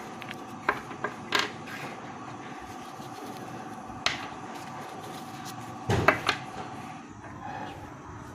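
Scattered knocks and clatter from handling the fan and its packaging, loudest as a cluster about six seconds in. Under them runs a steady high hum that cuts off about seven seconds in.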